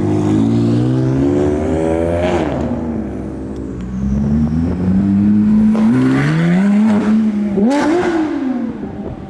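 A performance car's engine revving hard as it accelerates away. The pitch climbs, drops sharply at a gear change about two and a half seconds in, then climbs again twice more before falling away near the end.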